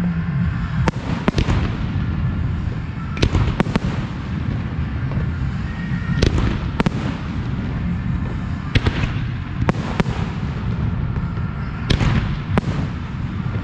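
Professional aerial fireworks display: about a dozen sharp shell reports at irregular intervals, roughly one every second or so, over a continuous low rumble of launches and bursts.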